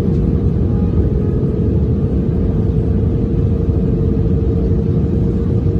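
Loud, steady low rumble of aircraft in flight, with a thin steady hum running through it.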